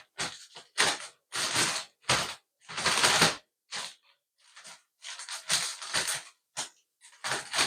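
Wood pellets being poured into a storage container in about a dozen short noisy bursts, each under a second, with brief gaps between.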